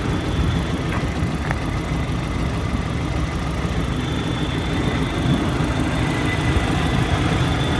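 1993 Audi S4 Avant Plus's turbocharged inline-five engine idling steadily after a cold start, with a faint steady high whine above the engine note.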